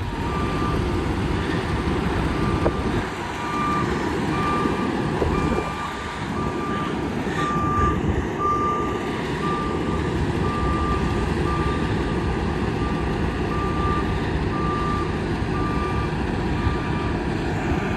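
Tractor-trailer's reverse alarm beeping steadily at one pitch, a little more than once a second, as the truck backs into a parking spot, over the low rumble of its diesel engine.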